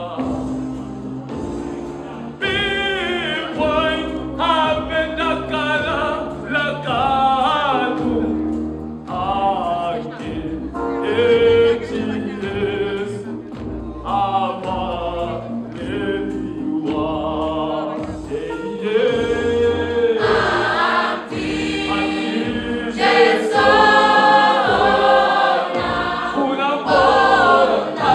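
Choir singing gospel music, several voices together over a low accompaniment that pulses in a steady beat.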